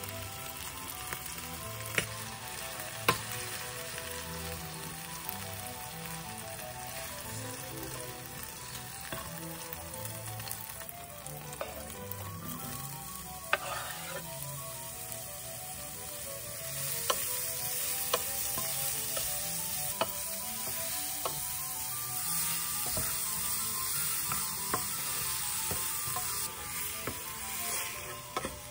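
Chicken pieces sizzling in oil in a frying pan, with a few sharp clicks early on as tongs turn them. A little past halfway, chopped shallots go into the hot pan and the sizzling grows louder as they are stirred with a wooden spatula.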